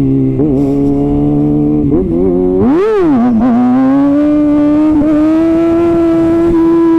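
Kawasaki ZX-6R inline-four through an Arrow titanium exhaust, under way with a few brief dips in the engine note, a sharp rev that rises and drops back about three seconds in, then a steady note that slowly climbs as it pulls.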